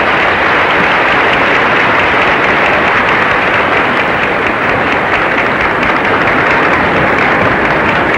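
Crowd applauding steadily, heard through an old newsreel recording that cuts off the higher tones.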